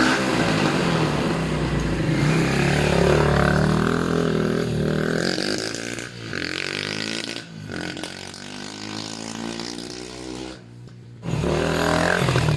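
Racer motorcycle engine running and revving, with its carburettor freshly cleaned: the pitch rises and falls, loud for the first half, then quieter with swoops up and down, and a sudden loud rev near the end.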